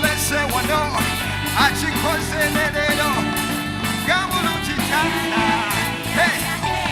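Live band playing with a singing voice over it, with drums and a steady bass line.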